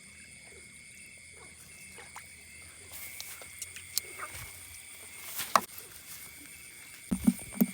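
Field at night: a steady high-pitched insect drone, with scattered clicks and knocks from about three seconds in and a cluster of short low pulses near the end.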